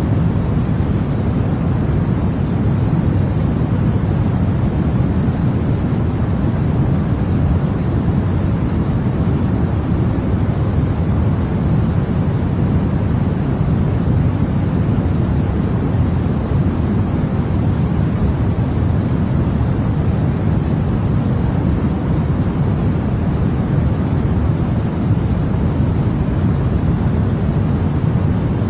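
Continuous sleep 'white noise' for babies: a loud, even, deep hiss that never changes.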